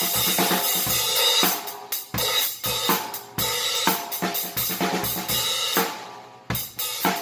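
Paiste 2002 16-inch Sound Edge prototype hi-hats played in a drum-kit groove with kick and snare. The strokes come in a steady run and drop away to a short lull about six seconds in before the playing picks up again.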